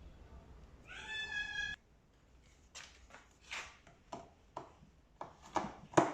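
A cat's single short meow about a second in, followed by a run of separate sharp clicks and knocks from screws, panels and tools being handled.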